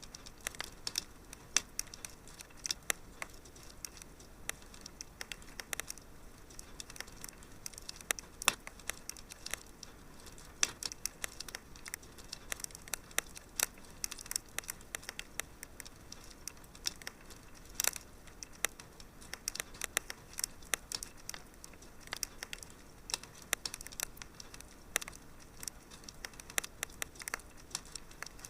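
Wood fire in a fireplace crackling, with irregular sharp pops and snaps, several a second, over a faint steady hiss.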